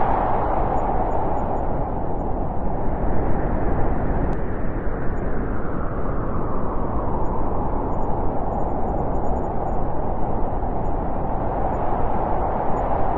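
Wind blowing as a steady rushing noise that eases after the start and swells again near the end.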